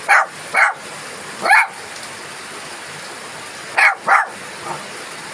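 Steady rain falling, with a dog barking in short barks: two at the start, one about a second and a half in, and two more near four seconds, followed by a faint one.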